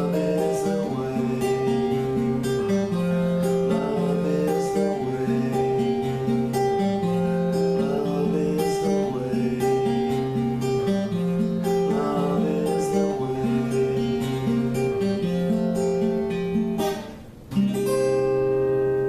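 Acoustic guitar playing a run of picked notes over a held tone. About seventeen seconds in it pauses briefly, then a final chord is struck and left ringing.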